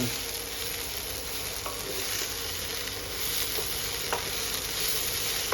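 Food sizzling steadily as it fries in a pan, with a couple of faint light clicks.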